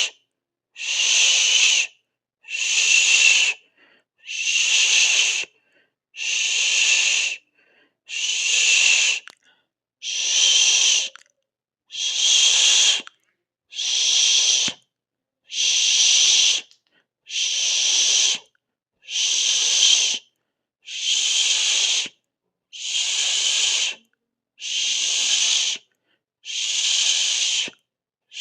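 A person making a long hissing 'sss' sound through the teeth, over and over: about one hiss every two seconds, each lasting just over a second, with a short silence between.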